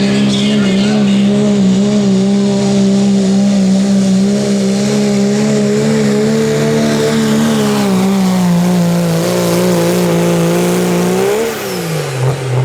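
Turbo-diesel pickup truck engine held at high revs under full load pulling the sled, a steady loud drone that sags slightly, then rises briefly and drops away sharply near the end as the throttle comes off.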